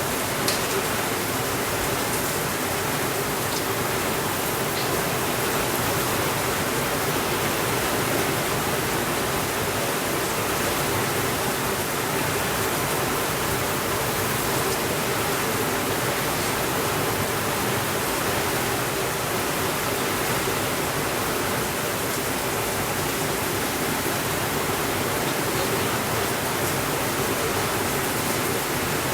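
Steady rainfall, an even, unbroken hiss. A few faint clicks come in the first few seconds.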